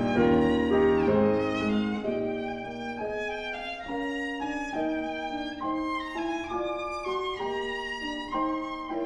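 Viola playing a melodic line of bowed, sustained notes with vibrato. Fuller lower accompaniment sounds with it for the first couple of seconds.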